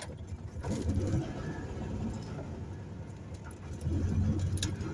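Air-cooled flat-four engine of a 1978 VW Fusca (Beetle) running under way, a low rumble that swells about a second in and again near the end.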